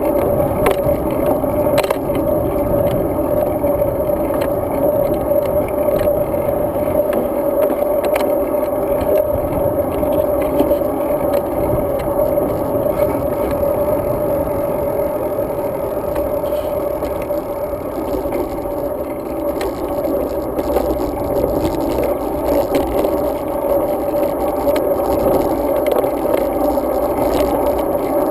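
Steady road and wind noise from a road bike being ridden, with a constant hum and scattered small clicks and rattles.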